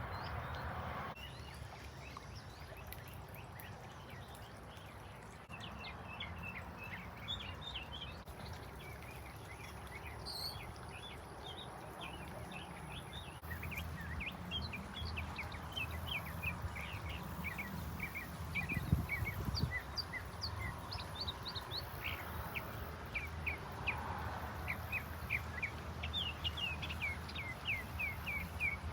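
Wild birds chirping: many short, quick calls, sparse at first and coming thick and fast through the second half, over a steady low background rumble. One louder thump about two-thirds of the way through.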